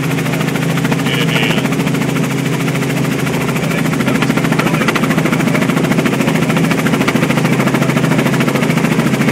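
Helicopter rotor and turbine heard from inside the cabin in flight: a loud, steady drone with a fast, even blade pulse, growing a little louder about four seconds in.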